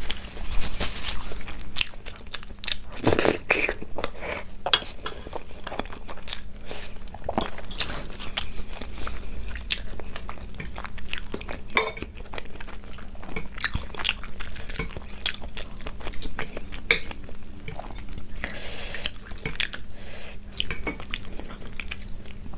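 Close-miked eating sounds: irregular chewing and crunching, with cutlery clicking against a dish.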